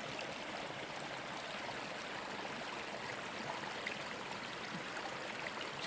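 A small woodland stream flowing, a steady rush of water.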